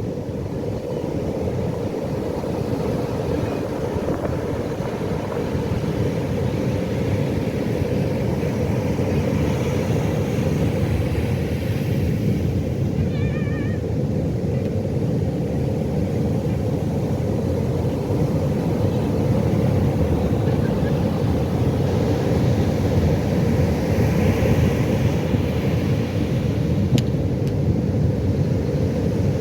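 Pacific Ocean surf: a steady, deep rush of waves breaking and washing, swelling a little louder past the middle.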